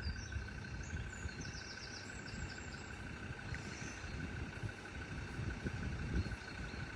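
Quiet outdoor ambience: a low rumble of wind and distant traffic, with a faint steady high tone throughout and a few short bird chirps in the first two seconds.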